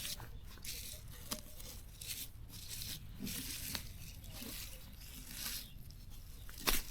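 Plants being pulled and torn up by hand: irregular rustling and tearing, with a sharp snap near the end.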